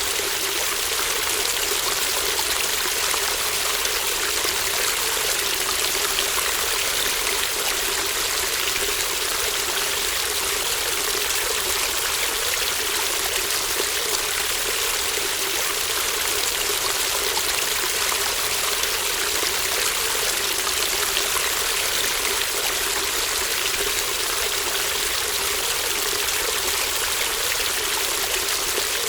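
A shallow babbling brook flowing, a steady rush of running water without breaks or changes.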